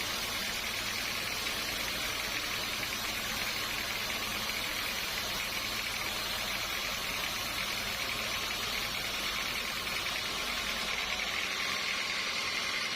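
Sawmill machinery running steadily, an even, hissing machine noise; the low rumble drops away near the end.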